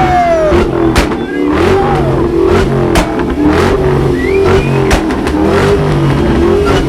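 Car engine revved hard over and over, loud throughout, with sharp exhaust cracks about every two seconds.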